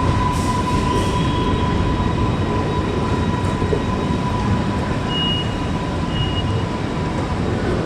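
Electric passenger trains at a station platform: a steady rumble and hiss with a constant high whine. Two short, higher tones come about a second apart past the middle.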